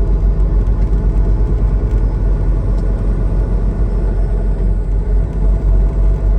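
Semi-truck's diesel engine and road noise heard from inside the cab while driving: a steady, heavy low rumble.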